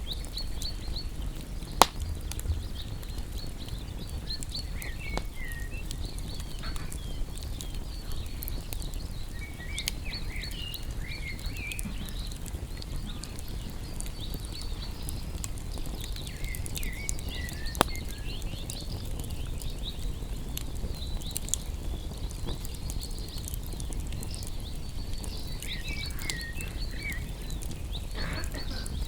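Campfire of burning wood crackling, with a steady low rush of the flames and sharp pops about two seconds in and again midway. Groups of short, high chirps come in several times over the fire.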